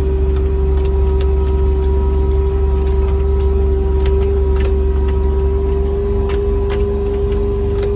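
Small vehicle's motor running steadily while driving across a field, a low rumble with a steady whine, and light clicks and rattles now and then.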